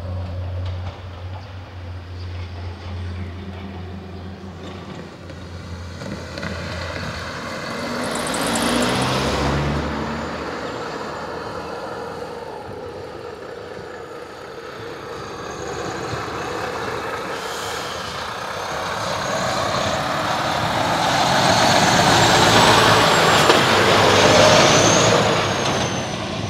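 Road vehicles at a railroad crossing: an engine running low and steady at first, then vehicles driving past, one about nine seconds in and a louder one building near the end.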